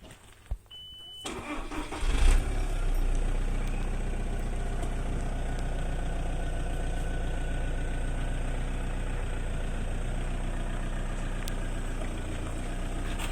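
A short high beep, then a car engine cranking and catching about two seconds in, settling into a steady idle.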